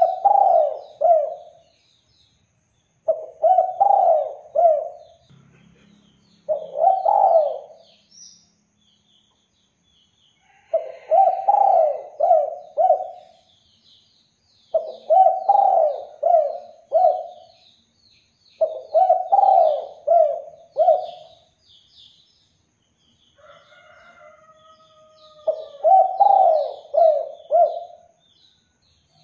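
Spotted dove (derkuku) cooing: a phrase of several quick notes repeated seven times, with pauses of one to three seconds between phrases. Faint high chirps of small birds sound behind it throughout.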